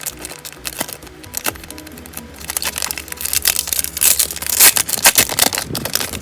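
Plastic-foil booster pack wrapper crinkling and crackling as it is handled, in a dense, loud cluster about four and a half to five and a half seconds in, over background music.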